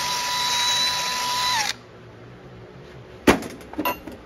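Power drill with a brush running steadily, scrubbing carbon off an engine piston top, then cut off about a second and a half in. A sharp knock follows, then a few lighter clicks.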